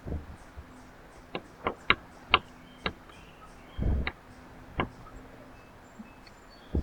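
Birds at a backyard feeder: a run of sharp taps and knocks, about seven in three and a half seconds, with a short low thump about four seconds in. Faint high chirps sound behind them.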